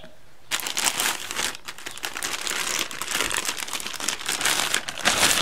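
Packaging bag crinkling and rustling as a cordless jigsaw is pulled out of it. It starts abruptly about half a second in and is loudest near the end.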